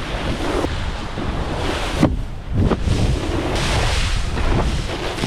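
Wind buffeting the microphone over rushing, splashing water: a steady rumbling noise with a few sharper gusts or splashes about two seconds in.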